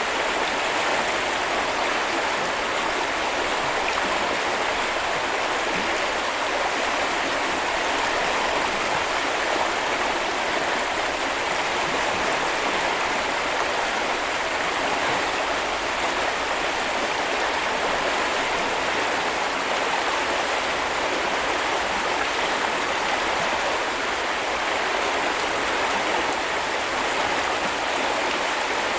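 A small river or brook running steadily over stones, with an even rushing and babbling of water and no breaks.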